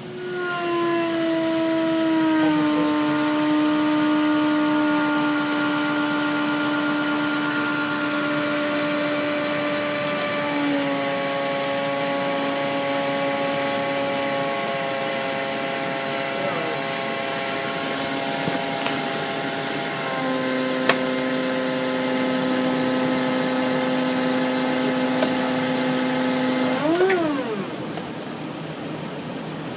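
Forklift running at high, steady revs under load while lifting a pickup truck, with a strong whining tone that steps down a little in pitch a few times. Near the end the pitch wavers up and down and the sound drops back to a lower idle.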